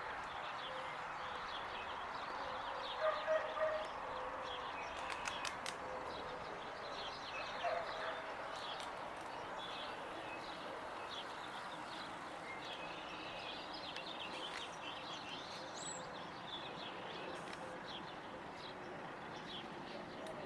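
Small birds chirping, scattered short high notes over a steady outdoor hiss, with a few louder short calls about three seconds in and again near eight seconds.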